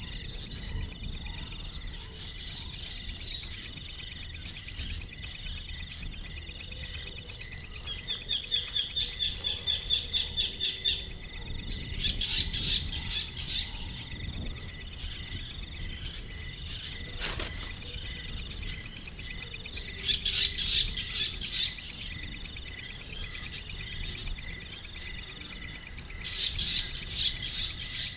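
Steady high-pitched chirping repeating about three to four times a second, joined three times by brief bursts of faster, higher chirps.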